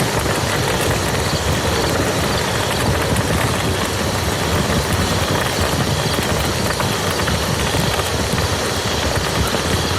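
Steady rain falling on a muddy field: a dense, even patter of drops with a heavy low rumble underneath, unchanging throughout.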